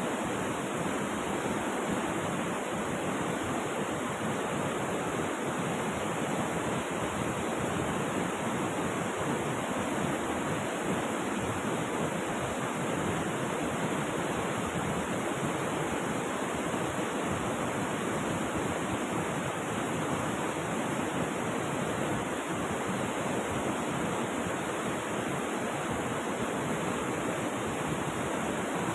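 Steady rushing of river water, an even, unbroken wash with no separate splashes or changes.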